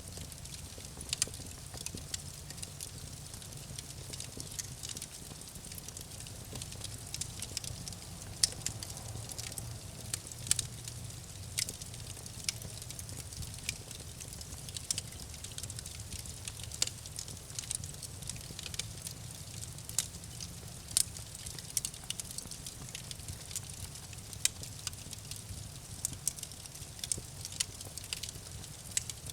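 Campfire crackling: irregular sharp pops and snaps over a low steady rumble of burning.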